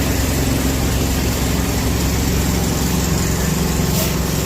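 Steady engine and road noise heard inside a moving vehicle's cabin, with a brief click about four seconds in.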